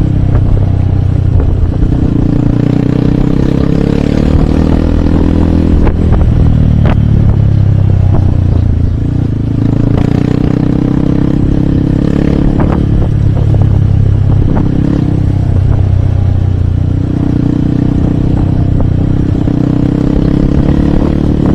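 Hero Hunk motorcycle's 150 cc single-cylinder four-stroke engine running under way, its revs dropping and climbing again several times as the rider rides through the gears. A few sharp clicks and rattles sound over the engine.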